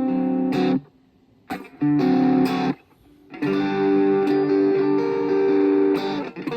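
Washburn Sonamaster electric guitar playing sustained chords. Each chord is muted off abruptly, with two short silent gaps early on, and a final chord rings for about three seconds.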